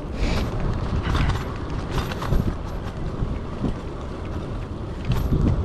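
Riding noise from a bicycle, recorded on a chest-mounted GoPro: a steady rumble of wind against the microphone and tyres on the road, with scattered small clicks and rattles from the bike.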